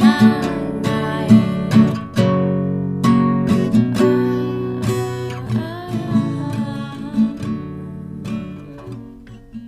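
Acoustic guitar playing the song's instrumental outro, strummed and picked chords that fade gradually and stop just before the end.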